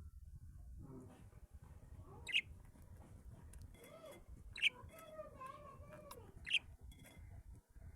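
Pet birds chirping: three short, sharp chirps about two seconds apart, with fainter calls in between.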